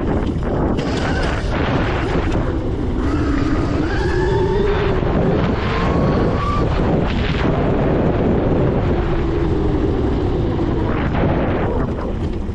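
Heavy wind rumble on the microphone from an electric dirt bike being ridden, with the motor's whine rising and falling a few times in the middle.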